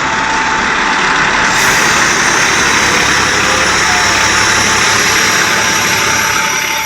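A large truck's engine running close by: a steady, noisy rumble that swells slightly about a second and a half in.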